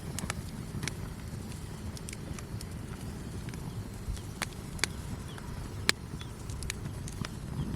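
Wood fire crackling: irregular sharp pops and snaps of burning wood over a low steady rumble of the flames, with the loudest pop about six seconds in.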